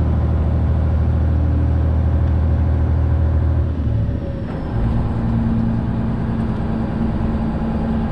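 Freightliner Classic XL semi truck's diesel engine running while driving, a steady low drone. About four seconds in the engine note drops briefly, then settles at a different pitch.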